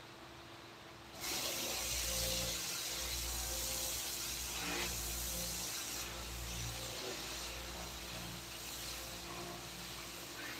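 Compressed air hissing from a nozzle, switching on abruptly about a second in and running steadily, slowly fading.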